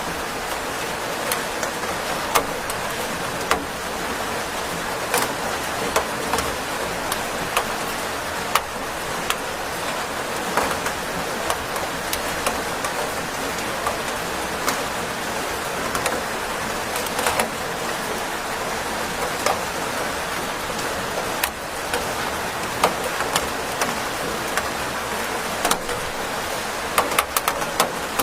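Steady rain falling, an even hiss with many scattered sharp drip ticks.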